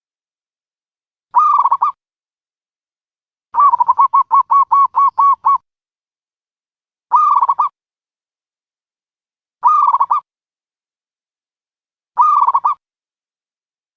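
Dove calls used as a trapping lure: short, loud, pulsed calls of about half a second, repeated every few seconds, with one longer run of about ten quick notes a few seconds in.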